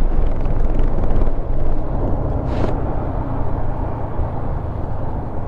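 Motorcycle riding at speed: wind rushing over the rider's microphone with the engine running underneath, loud and steady, with a brief sharper gust about halfway through.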